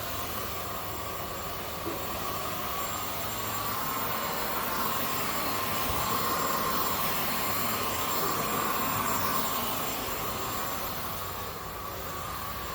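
Zoker A10 Pro cordless stick vacuum running on its highest power setting: a steady motor whine over a rush of air, growing a little louder midway and easing off near the end.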